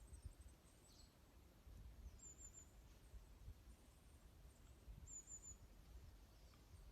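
Small songbirds calling faintly: two short bursts of about three quick, high chirps each, a few seconds apart, over a faint low rumble.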